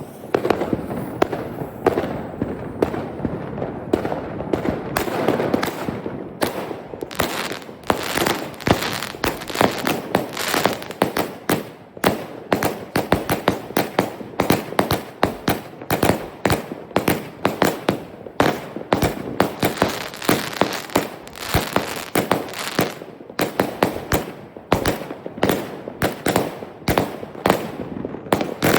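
Fireworks going off in a dense, continuous barrage of rapid bangs and crackles, with louder clusters of shots and a few brief lulls.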